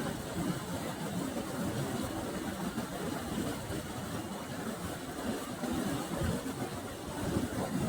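Water pouring over a small river weir: a steady, full rush of falling water, strongest in the low rumble.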